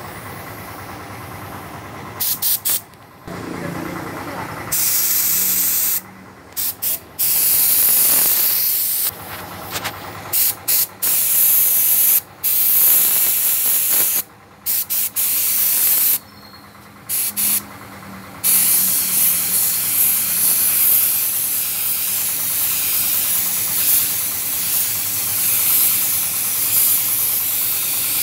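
Car-paint spray gun hissing in short bursts as the trigger is pulled and let go, then spraying almost without a break from about two-thirds of the way in. A quieter steady hum carries on between the bursts.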